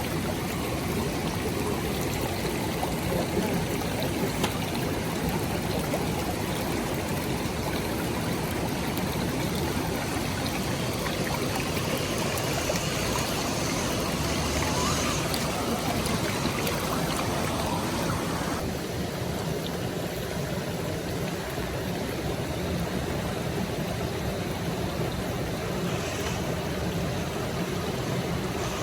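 Steady rush of running water, changing slightly in tone about two-thirds of the way through.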